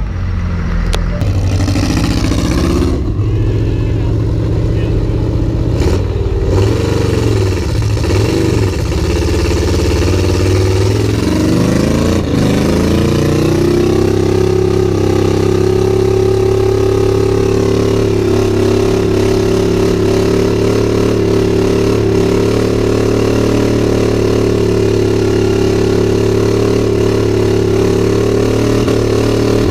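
Diesel pickup truck engine revved in rising and falling swells, then about thirteen seconds in held steady at high revs for the rest, as in a burnout.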